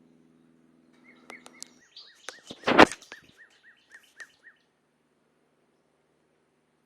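A bird going off in a rapid run of short repeated chirps, about three or four a second, that stops about four and a half seconds in. A loud sharp burst about three seconds in is the loudest sound, and a low steady engine hum fades out about two seconds in.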